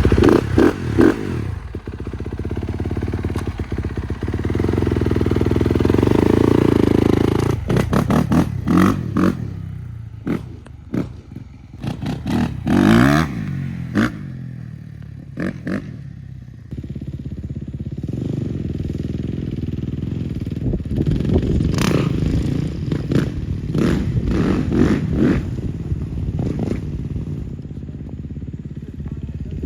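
Kawasaki KX250 dirt bike engine running and being revved, its pitch rising and falling again and again, with steadier running in between.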